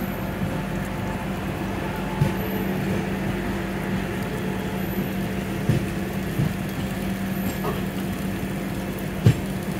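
Trains running side by side at low speed: a steady rumble with a constant low hum, and sharp wheel knocks over rail joints now and then, four of them spread irregularly through the stretch.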